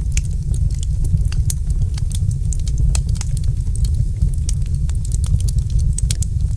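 Wood fire burning in a fireplace: a steady low rumble of flames with many small, sharp crackles and pops at irregular intervals.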